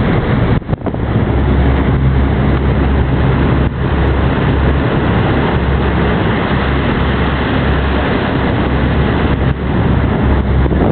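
Jet boat ferry's engines running, a steady low drone under a constant rush of noise, with a couple of brief dips about a second in.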